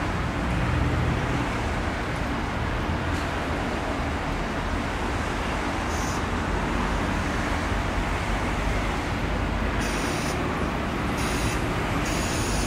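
Railway noise at a narrow-gauge station: a steady low rumble as a red Zillertalbahn diesel railcar pulls in alongside the standing steam train. Short sharp hisses come about six seconds in and several more near the end.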